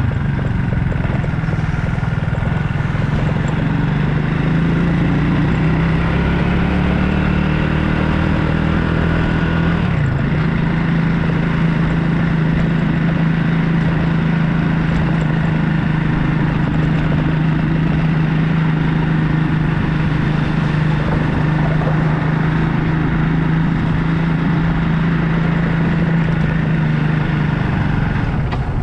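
Motorbike engine running under way. Its note wavers up and down over the first ten seconds, dips briefly about ten seconds in, then holds steady.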